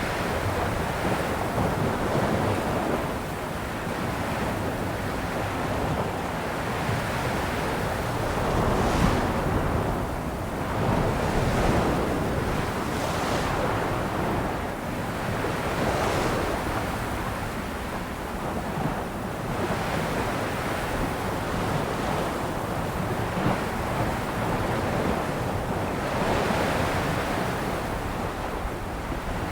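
Ocean waves washing onto a shore in a continuous surging hiss, swelling and easing every few seconds, with wind noise on the microphone.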